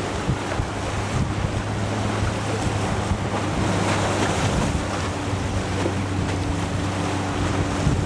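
Wind buffeting the microphone with water washing along a sailboat's hull, plus a steady low hum underneath.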